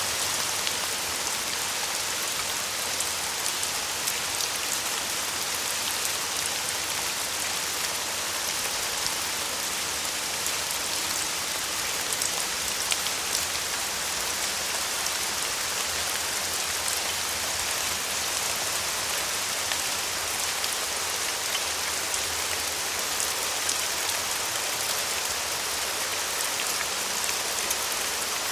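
Steady rain falling, an even hiss with many small drop hits pattering on a surface.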